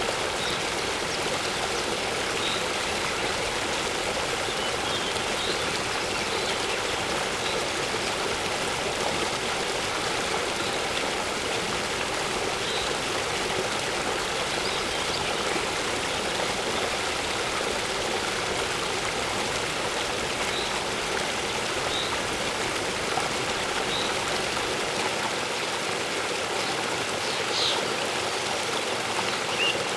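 Waterfall water rushing steadily, with a few short, faint bird chirps now and then.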